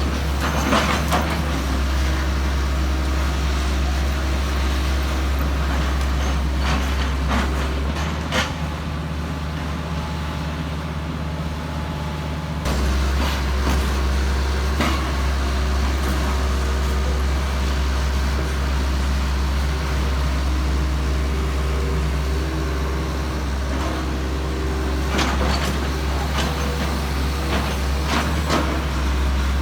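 Heavy diesel engine running steadily with a deep drone, with scattered clanks and knocks. The drone drops slightly in level and changes pitch about eight seconds in, then comes back up sharply at about twelve and a half seconds, as if the engine's load changes.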